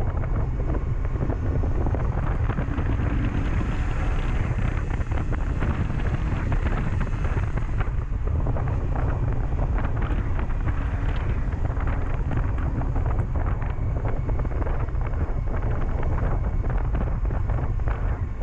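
Wind buffeting the microphone of a moving 2007 Honda CB400SF motorcycle, with the bike's inline-four engine running steadily underneath.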